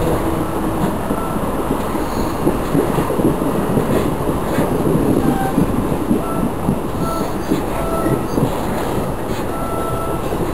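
Passenger train running along the track, heard from on board: a steady rumble and rattle of wheels on rail, with a few brief, faint squeals now and then.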